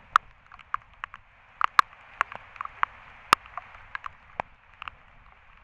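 Heavy downpour: a steady hiss of rain with many irregular sharp ticks of drops striking right at the waterproof camera, a few much louder than the rest.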